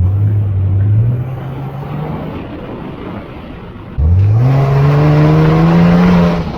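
Ford F-150 pickup engine accelerating, its pitch climbing for about two seconds and then easing off. About four seconds in it opens up again, suddenly louder, the pitch rising steeply and holding high, before backing off near the end.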